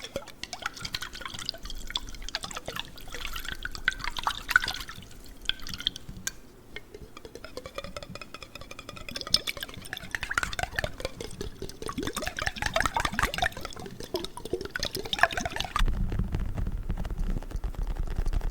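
Water dripping, splashing and pouring inside a jar, close to the microphone, with gurgles that glide in pitch. Near the end it switches abruptly to a lower, steadier handling sound of a faux leather neck pillow.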